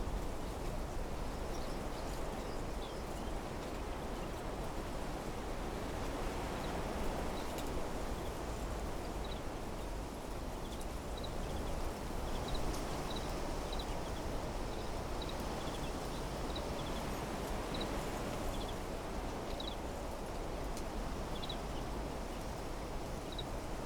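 Steady wind blowing through desert trees and shrubs, rustling the leaves, with a small bird giving short high chirps at irregular intervals through most of the stretch.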